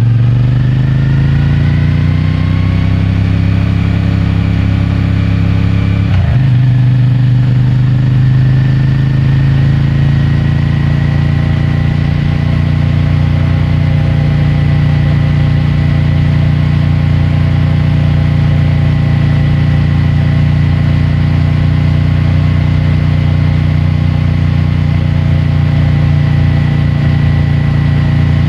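CFMOTO 450MT's parallel-twin engine and stock exhaust under way, rising in pitch for about six seconds, dipping briefly at an upshift, then settling to a steady cruise.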